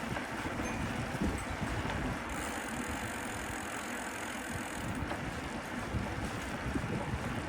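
Wind buffeting the microphone of a camera on a moving bicycle, a gusty low rumble over steady street noise, with a high hiss from about two seconds in to five seconds in.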